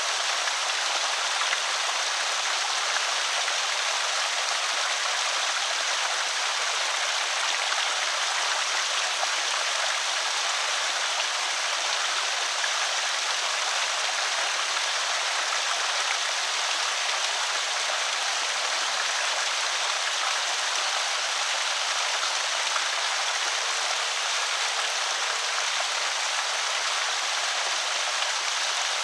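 Creek water pouring over a small spillway: a steady, even rush and trickle with no breaks.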